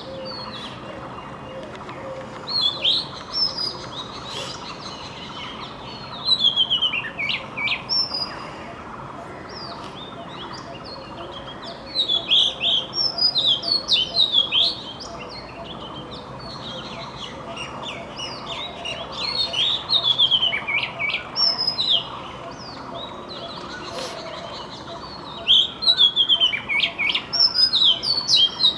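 Magpie-robin singing: bursts of quick, varied whistled notes that come every few seconds, with pauses between, over steady background noise.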